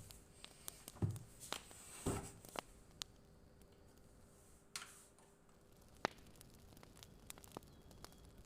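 Fire crackling: irregular sharp pops and snaps over a faint steady hum, with two duller knocks in the first couple of seconds and a brief swish about five seconds in.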